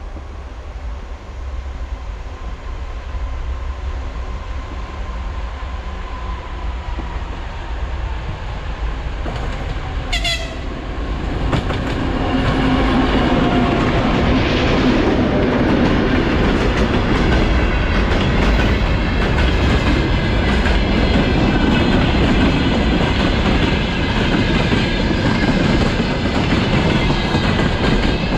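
2TE116U twin-section diesel locomotive approaching with a freight train: its diesel engines grow steadily louder until it passes about twelve seconds in. Loaded freight wagons then roll by with a continuous wheel rumble and clatter over the rail joints.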